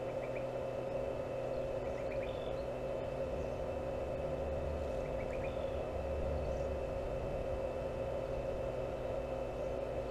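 A steady mechanical hum holding one fixed pitch, with short high bird chirps a few times.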